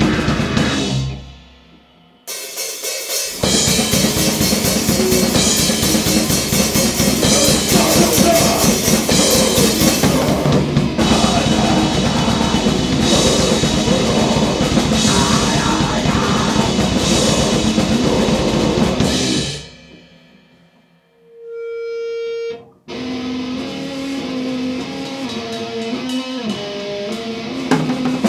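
Grindcore noise band recording: a wall of distorted guitar and drums that cuts out briefly near the start, then runs loud until it fades away about two-thirds through. A short steady tone follows, then a new passage with clear bass notes and drums begins.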